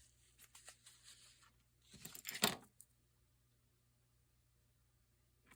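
Paper being handled on a craft table: faint rustles and light ticks, then one brief louder rustling scrape about two seconds in, after which it goes quiet.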